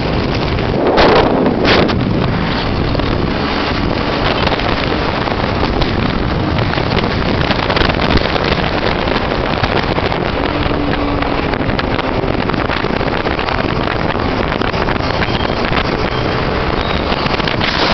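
Heavy wind rushing over the microphone of a moving motorcycle, with the engine running underneath. There are two brief louder gusts about one and two seconds in.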